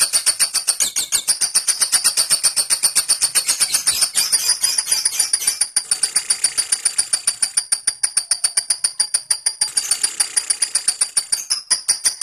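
Lovebird in a long 'ngekek' song: a rapid, high-pitched chattering trill of many sharp notes a second, running on with brief breaks about halfway and near the end. The keeper suggests such long ngekek may come from conditioning that is too intense or from over-arousal in breeding condition.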